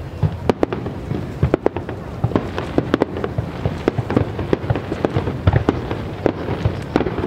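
Aerial fireworks exploding: a rapid, irregular run of sharp bangs and crackles, several a second, over a low rumble.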